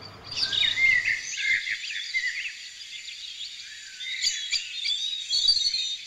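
Several small birds chirping and twittering together, a dense run of quick, high, overlapping calls and whistles that starts abruptly just after the beginning.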